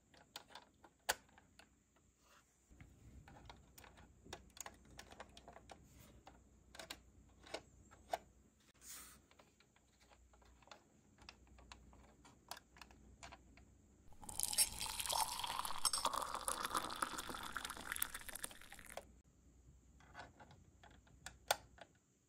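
Quiet small plastic clicks and taps as a 1/24 scale plastic model car and its wheels are handled and the wheels pressed on. About two-thirds of the way through comes a dense scratchy rustle lasting several seconds, the loudest sound here.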